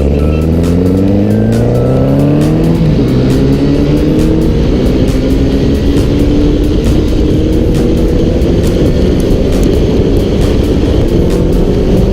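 Motorcycle engine accelerating hard: its pitch climbs for about three seconds, drops at an upshift, then climbs again more gently, under heavy wind noise.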